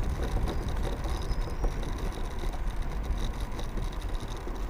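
Wind rumbling on the microphone with road and tyre noise from a moving electric scooter.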